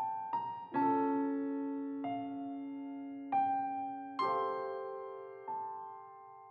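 Slow, gentle background piano music: notes and chords struck every second or so and left to fade.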